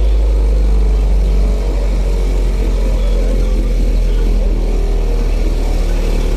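Car audio subwoofers playing a very loud, deep bass tone in an SPL (sound pressure level) bass competition. The tone is steady and shifts slightly about a second and a half in.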